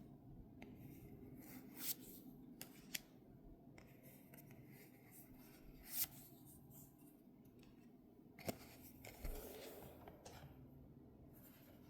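Faint handling of trading cards and their packaging: a handful of short, sharp swishes and rubs, about five spread out over a low room hum.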